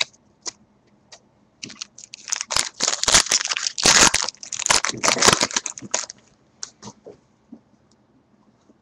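Plastic wrapper of a pack of baseball cards being torn open and crumpled, a burst of crinkling that lasts about four seconds and ends in a few light ticks.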